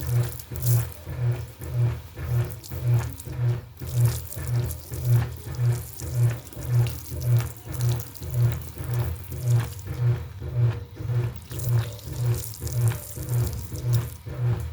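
Washing machine running with water sloshing in the tub, its low motor hum swelling and fading in a steady rhythm just under twice a second.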